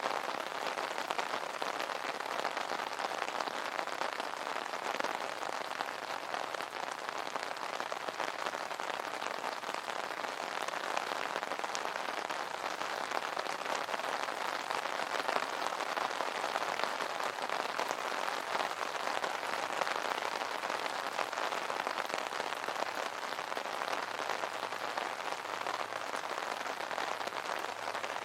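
Steady rain pattering on an umbrella, a dense even hiss of countless small drop impacts.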